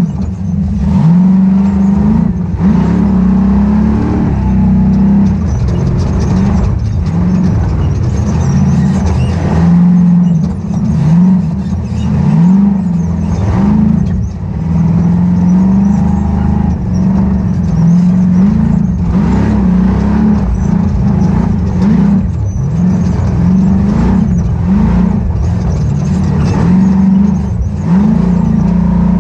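Ultra4 off-road race car's engine under hard throttle, loud and close, its pitch climbing and dropping again and again as the driver gets on and off the gas, with occasional knocks from the car.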